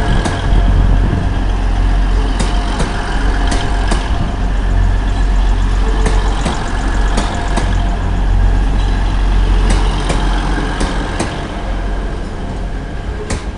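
A Grand Central diesel passenger train rolling slowly past over a low, steady engine drone. Its wheels click in close pairs over a rail joint as each bogie crosses it, and the sound eases near the end as the last coach clears.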